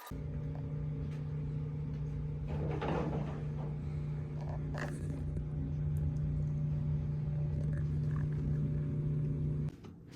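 A steady low mechanical hum, like a motor running, that starts suddenly and cuts off just before the end, with a brief rustle about three seconds in and a short sharp noise about five seconds in.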